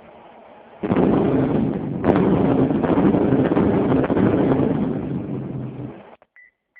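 15-inch car-audio subwoofer playing bass-heavy music at high volume, starting about a second in and fading out near the end.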